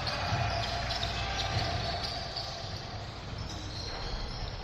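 Basketball dribbled on a hardwood gym floor, thumping about twice a second, over the general din of a gym during a game.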